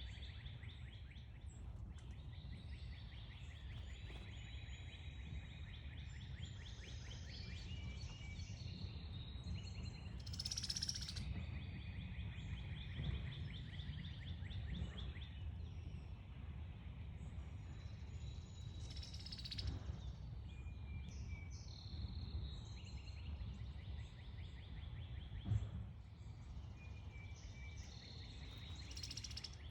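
Garden ambience of songbirds chirping and giving short whistled calls several times, over a steady high buzzing trill and a low background rumble. There is a single sharp knock about three-quarters of the way through.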